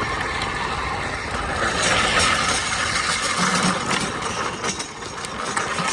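Steady rushing road noise while riding a trike along a road, swelling a little about two seconds in.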